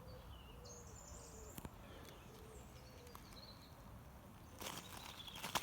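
Faint bird calls, a run of short low notes with a few higher whistles over them. Near the end comes a rustling, crunching noise like footsteps through brush.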